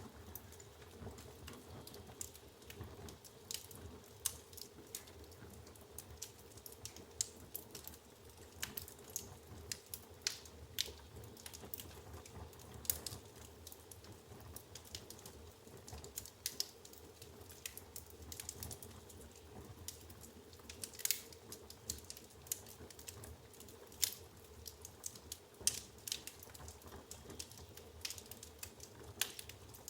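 Wood fire burning in a fireplace: logs crackling and popping with irregular sharp snaps, some louder than others, over a low steady rumble.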